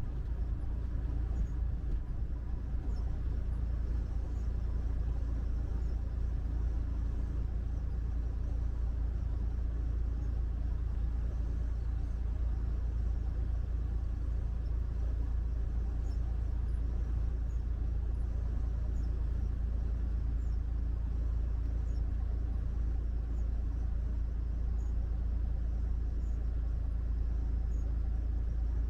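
Steady low rumble of a truck driving down the highway, unchanging throughout.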